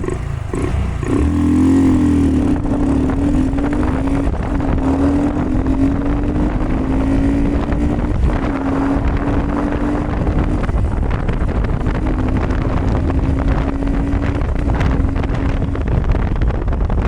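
Honda Grom mini bike's single-cylinder engine running as it is ridden, a steady drone that rises slightly in pitch and dips briefly every few seconds, over low wind rumble on the microphone.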